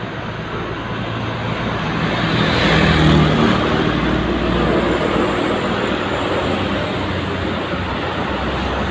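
Heavy trucks passing on a highway: a diesel engine drone with tyre and road noise, swelling as one passes close about three seconds in.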